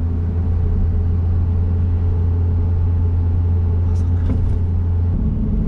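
Honda S660's small turbocharged three-cylinder engine running steadily under way, heard as a strong low drone with road noise. About five seconds in, the drone drops in pitch.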